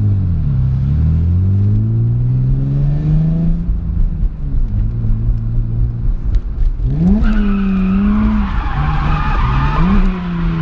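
A drift car's engine revving up and falling back as it works through the course. From about seven seconds in, the tyres squeal as the car slides, with the engine held high and bouncing in revs.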